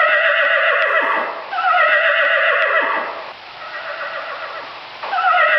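Horse whinnying: two long neighs, each falling in pitch, with a third starting near the end.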